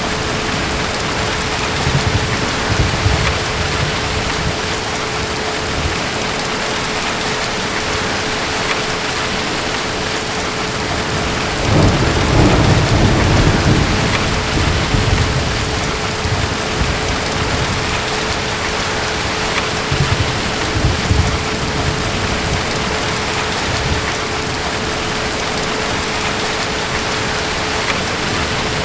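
Steady heavy rain with distant thunder rumbling. A louder roll of thunder comes about twelve seconds in and lasts a few seconds, with lighter rumbles before and after it. A thin steady tone runs underneath.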